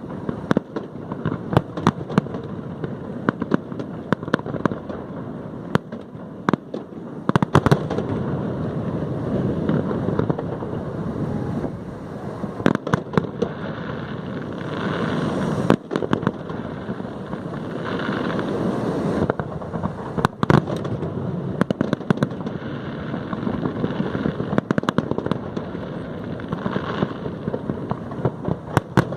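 Aerial fireworks display: many sharp bangs in quick succession over a continuous rumble of shell bursts, swelling denser around the middle and again near the end.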